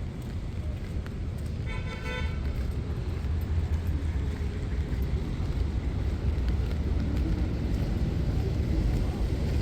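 A single short car horn toot about two seconds in, over a steady low rumble of street traffic that grows louder partway through.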